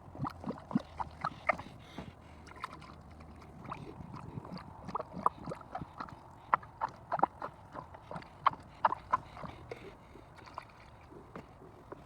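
Hand squeeze-bulb siphon hose being pumped over and over to move engine coolant. It makes irregular clusters of short squeaky, squelching clicks as the rubber bulb is squeezed.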